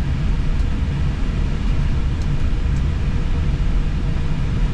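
Steady low rumble inside an Airbus A320 cockpit as the airliner taxis, with a faint steady hum above it.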